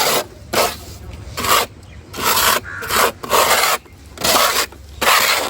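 Dry sand-and-cement powder being scraped across a hard surface in about seven gritty strokes, a little more than one a second.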